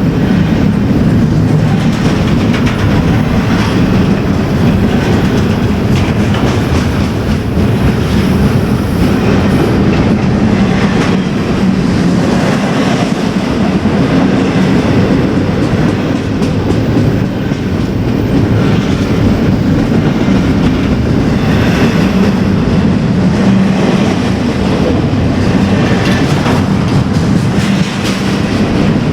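A train rolling steadily past, its wheels clattering over the rail joints.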